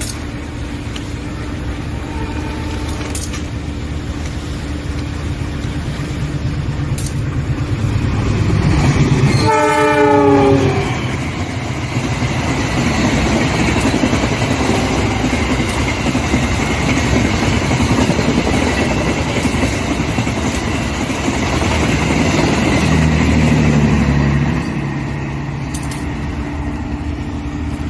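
A train passing at speed sounds one long horn blast about ten seconds in, its pitch dropping as it goes by, then rumbles and clatters past for about a quarter of a minute before fading. Under it a diesel locomotive idles with a steady hum.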